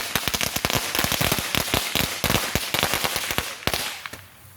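Consumer fireworks going off as a rapid, dense string of firecracker cracks, dying away near the end.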